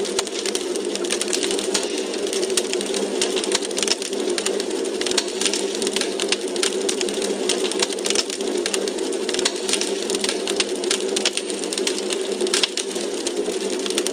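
Wood fire crackling in a fireplace: dense, irregular pops and snaps over a steady low rush of flame.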